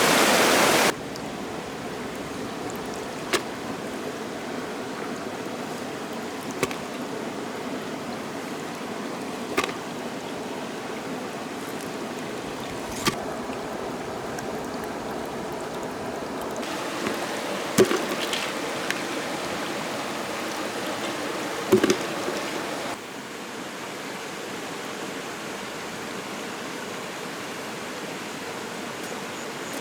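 Steady rushing of stream water, with a sharp knock every few seconds and a couple of louder knocks past the middle.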